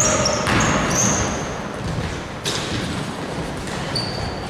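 Basketballs bouncing on a gym floor in an echoing hall, with short high-pitched squeaks scattered through.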